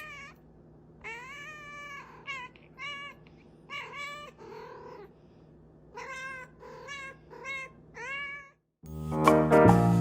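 A cat meowing over and over, a string of short meows that each rise and fall in pitch. Loud music comes in near the end.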